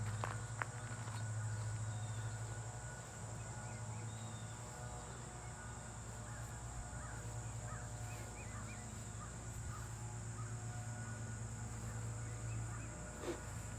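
Outdoor ambience: a steady high insect drone and a low steady hum, with birds calling in short repeated notes through the middle.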